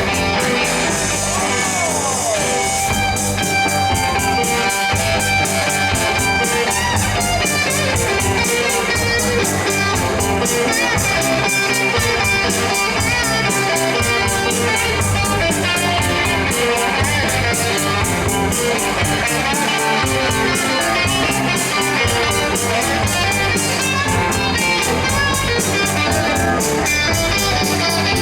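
Blues band playing an instrumental passage: electric guitar over a drum kit with a steady fast beat.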